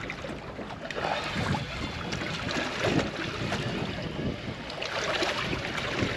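Wind buffeting the microphone over water noise on a small boat at sea: an uneven rushing with no steady engine tone.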